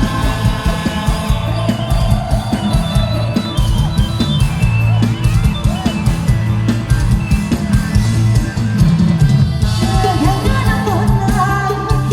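Live band playing loud retro ramwong dance music, with drum kit and bass keeping a steady beat.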